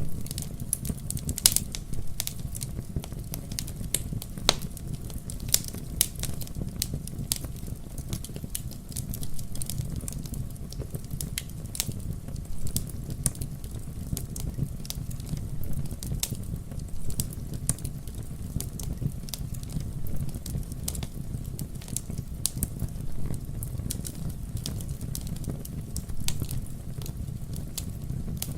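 Campfire burning and crackling, with many irregular sharp pops and snaps over a low steady rumble.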